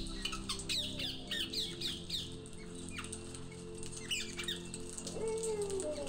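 A flock of birds giving short, high, falling squawks, many in quick succession in the first two seconds and again around four seconds in, over low steady background music.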